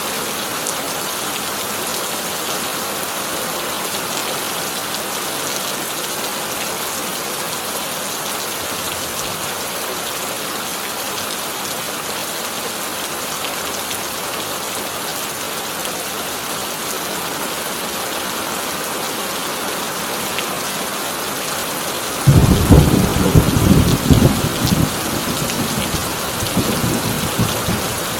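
Heavy rain drumming steadily on a tin roof. Late on, a loud thunderclap breaks in suddenly and rumbles away over several seconds.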